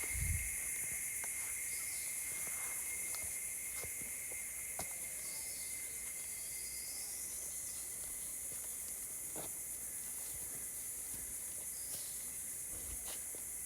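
Tropical rainforest ambience: a steady high-pitched insect chorus with a continuous thin whine underneath, scattered faint clicks and snaps, and a brief rising call about six seconds in.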